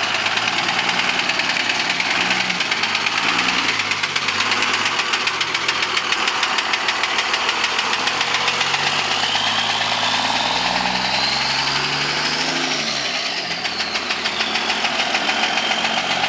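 2002 Dodge Ram's Cummins 24-valve inline-six diesel running with a rapid, steady knocking, which the owner calls an engine knock. About ten seconds in the engine speeds up briefly, and a high whistle rises and then falls.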